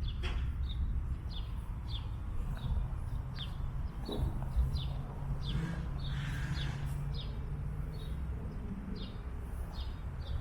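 A bird chirping over and over, short falling chirps about two a second, over a steady low rumble.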